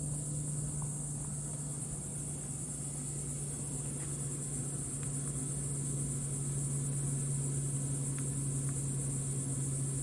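Continuous high-pitched drone of insects, over a steady low hum, with a few faint ticks.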